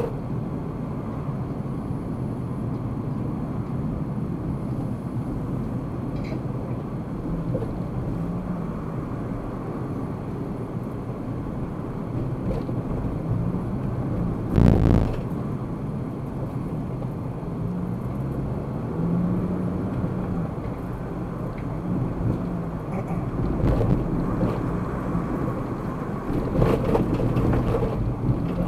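A car driving: steady engine and road noise, with a low engine hum that drifts up and down in pitch. A single loud thump about halfway through.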